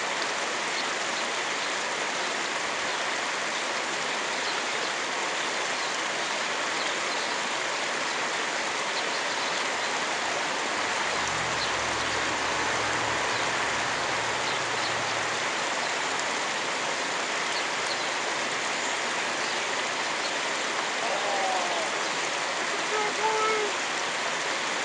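Creek water rushing steadily over a riffle. A faint low hum comes in for a few seconds midway, and a few brief voice-like sounds come near the end.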